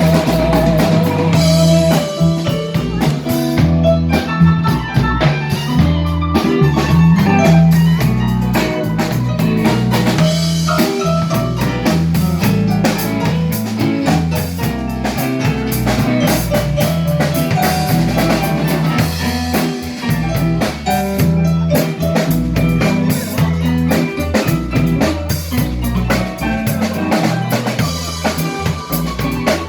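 A live band playing an instrumental passage, led by the drum kit with a steady bass line underneath.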